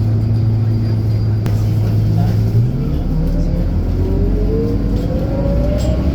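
Scania K230UB city bus engine running steadily, then about two and a half seconds in its note shifts and a rising whine climbs as the bus accelerates.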